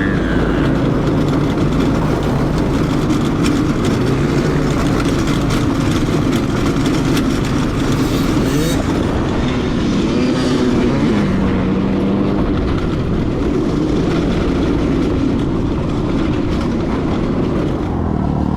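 Small off-road vehicle engine running under load, its pitch rising and falling as it is revved and eased off.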